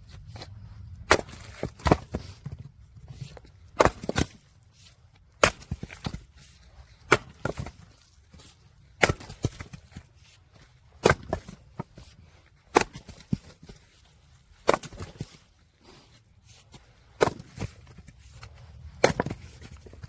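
Firewood being split: sharp wooden chopping strikes, roughly one every two seconds, about ten in all, with a faint steady low rumble underneath.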